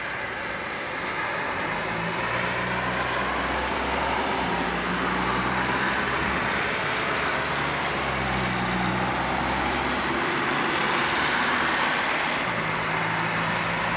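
Heavy rain with a steady hiss. A low engine hum comes and goes underneath it, as from a vehicle running close by, and fades near the end before returning briefly.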